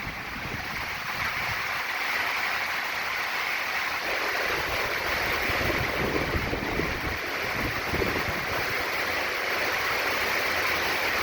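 Hurricane-force wind driving heavy rain: a steady rushing hiss, with gusts buffeting the microphone now and then.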